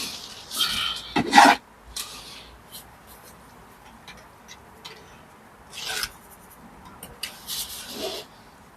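A hand tool scraping on brick and mortar in short strokes: a quick run of scrapes ending in one louder stroke about a second and a half in, a few light taps, then a pause and two or three more scrapes near the end.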